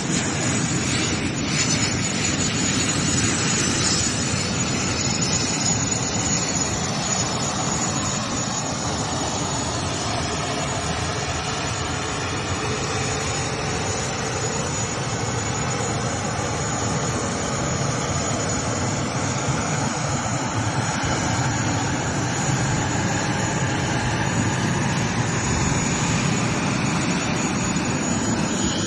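Bombardier Challenger 601-3A/ER business jet's GE CF34 turbofan engines running: a steady rushing noise with a thin, constant high whine.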